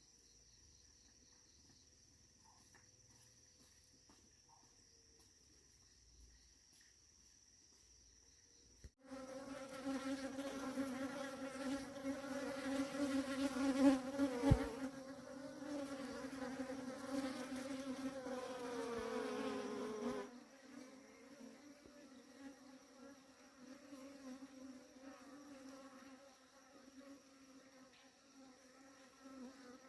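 A bee buzzing close by, starting suddenly about nine seconds in and lasting about ten seconds, its pitch wavering and then sagging as it moves off; it carries on fainter afterwards. Before it, a faint steady high-pitched insect drone.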